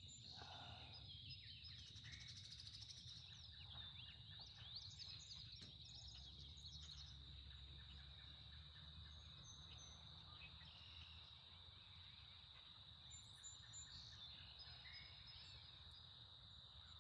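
Faint outdoor ambience: a steady high-pitched insect trill, with scattered bird chirps now and then.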